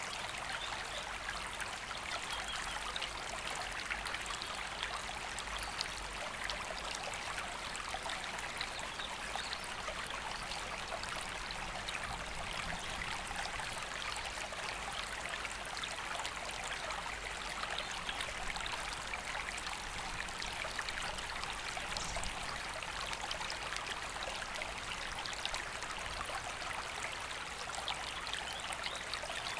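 River water flowing steadily, a continuous rushing with a fine trickling texture.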